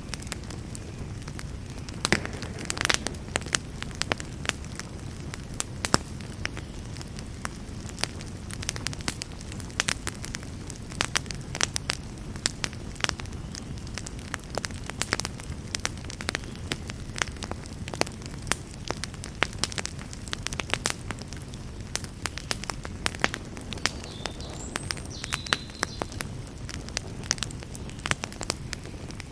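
Campfire burning: the wood crackles and pops in frequent, irregular sharp snaps over a low, steady rumble of the flames.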